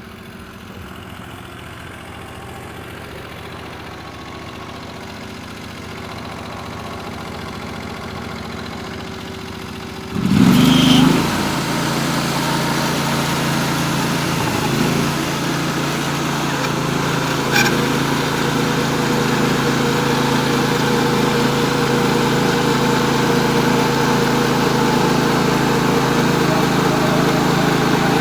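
Norwood HD36V2 sawmill's engine idling, then throttled up sharply about ten seconds in and running steady at high speed. A single sharp click comes a few seconds after the throttle-up.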